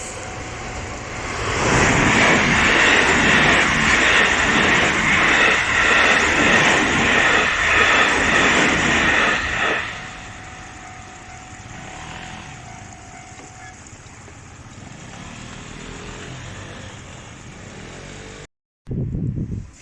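A JR West electric train passing at speed close by: a loud rush of wheels on rail and air builds about a second in, holds for about eight seconds, then drops away to a quieter, steady rumble.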